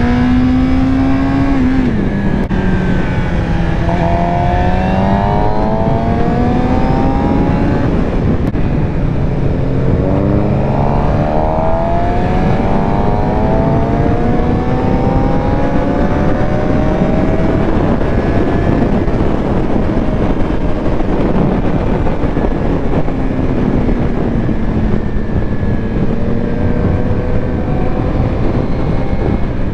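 2019 Suzuki GSX-R600's inline-four engine revving up and dropping back several times through the gears while riding, with heavy wind rush on the microphone.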